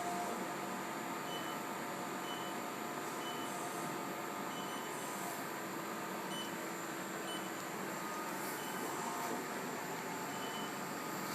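Steady machine hum and hiss, with a short high beep about once a second.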